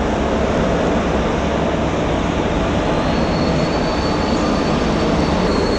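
Goods train moving along the track, a loud steady rumble of wheels on rails, with a thin high squeal joining about three seconds in.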